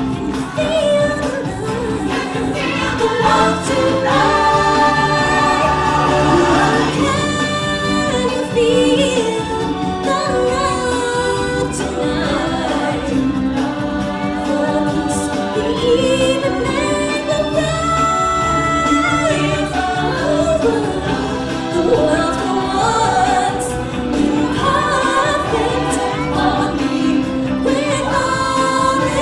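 Stage-show music with a choir of singers and backing band, the voices holding long, gliding notes over a steady accompaniment.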